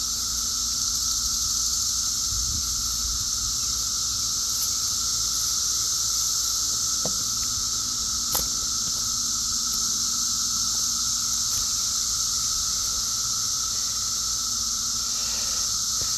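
Dense chorus of 17-year periodical cicadas: a continuous high, hiss-like drone with no let-up, with a single faint click about eight seconds in.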